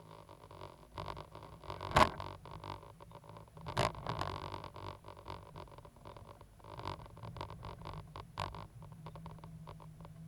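Cat 320GC hydraulic excavator running steadily, with clanks and rattles from the machine at work; two loud knocks come about two and four seconds in.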